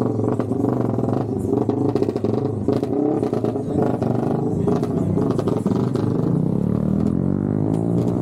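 Motorcycle engine running under way, steady at first, its pitch rising over the last two seconds as the bike accelerates.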